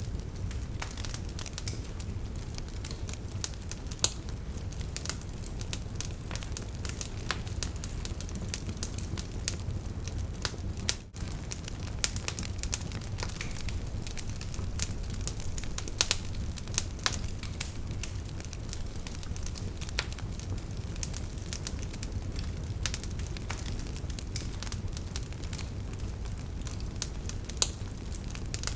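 Wood campfire burning, with continual crackling and popping of the firewood over a steady low rumble of the flames. Sharper pops stand out about four, sixteen and near twenty-eight seconds in, and the sound drops out for an instant about eleven seconds in.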